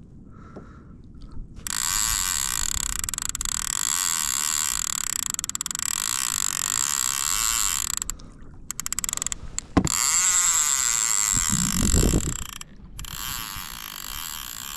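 Fishing reel's drag screaming as a big fish runs off with line after taking a live bait, a steady high-pitched buzzing rattle in long runs that stops briefly twice, once about eight seconds in and again near thirteen seconds.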